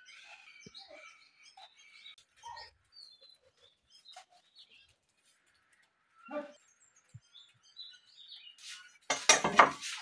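Birds chirping faintly and repeatedly in the background. Near the end, a loud burst of noise about a second long covers them.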